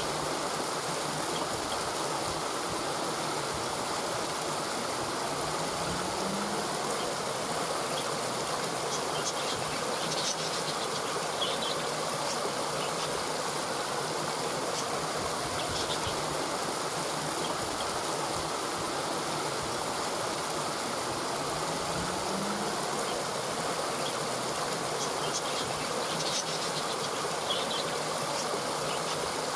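Steady rush of flowing water, with brief high chirps at intervals; the same pattern repeats about every 16 seconds.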